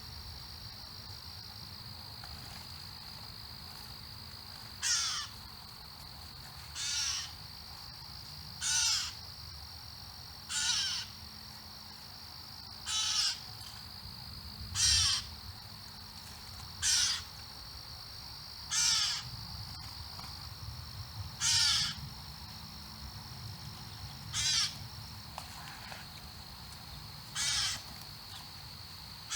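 A bird giving a harsh, caw-like call over and over, about a dozen calls spaced roughly two seconds apart, each dropping in pitch. A steady high insect drone, like crickets, runs underneath.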